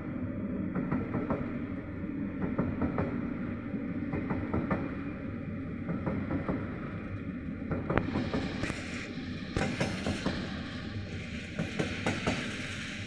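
Freight train rolling by: a steady rumble of wagon wheels on the rails with frequent clicks and clanks, as on rail joints. A hiss comes in about eight seconds in.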